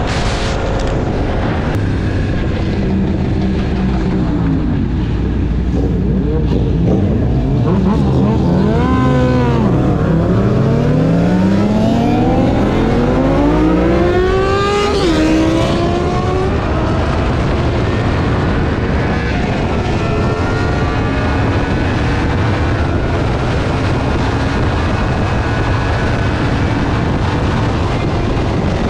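Motorcycle engine on the move under a steady rumble of wind and road noise. About a third of the way in, the engine pitch rises and falls a few times, then climbs steadily for several seconds before dropping back.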